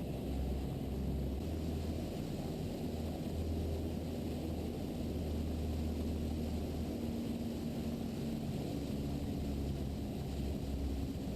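A Mooney M20E's four-cylinder Lycoming engine and propeller droning steadily, heard from inside the cabin.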